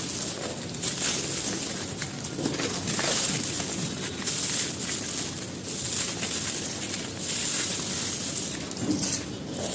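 Gritty material such as charcoal or brick pieces crumbled and crushed by hand, a continuous dry crunching and grinding that swells every second or so.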